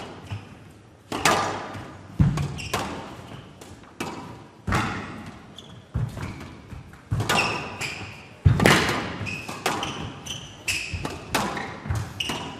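Squash rally: the ball struck by rackets and smacking the court walls in sharp, echoing thuds about once every second or so, with short high squeaks from players' shoes on the court floor between shots.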